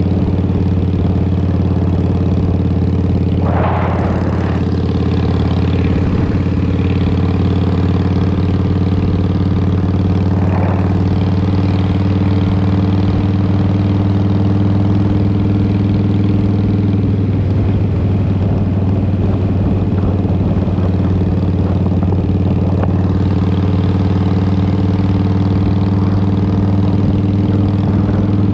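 2003 Harley-Davidson Fat Boy's Twin Cam 88 V-twin running steadily through a Vance & Hines exhaust while riding, the engine note shifting slightly about two-thirds of the way through.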